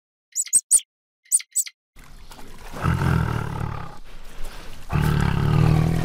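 Tiger growling twice, two long low growls about two seconds apart, the second starting near the end. A few short high-pitched squeaks come before them in the first two seconds.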